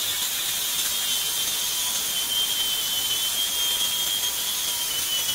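Angle grinder fitted with a flap disc grinding down wooden deck boards: a steady high whine with a hiss of abrasion, the pitch sagging slightly under load.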